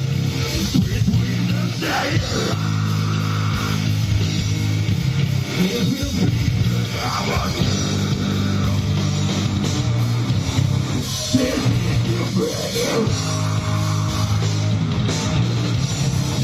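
Live rock band playing heavy rock, with distorted electric guitar chords held over a low, steady bass.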